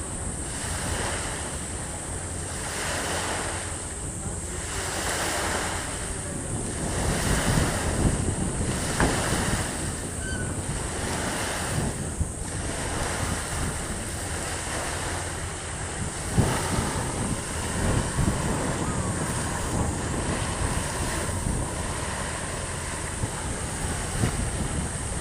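Wind blowing across the microphone over the sound of the sea, swelling in gusts about every two seconds for the first half, then steadier.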